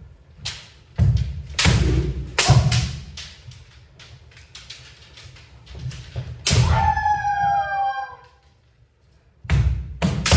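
Kendo bout: feet stamping on a wooden dojo floor and bamboo shinai striking, a run of sharp thuds in the first few seconds. About six and a half seconds in comes a long kiai shout that falls in pitch, with another hard stamp-and-strike near the end.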